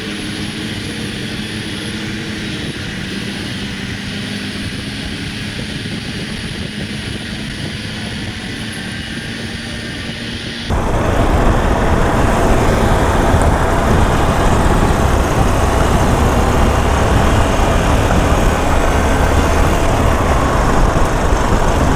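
Steady wind and road noise picked up while riding a motorcycle, jumping abruptly to a louder, rougher rush of wind about halfway through.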